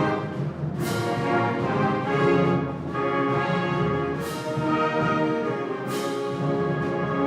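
Wind band playing sustained brass chords, with French horns prominent. Sharp crashes ring out about a second in and twice more in the middle.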